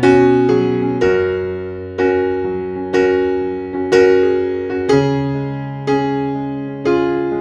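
Background piano music: chords struck about once a second at an even, unhurried pace, each ringing and fading before the next.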